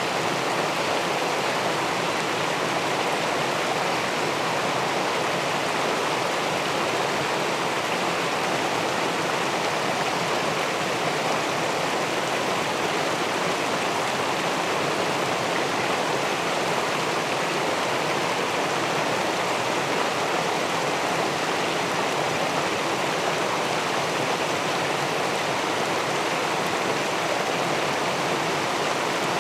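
River water pouring over a weir into the pool below, a steady unbroken rush.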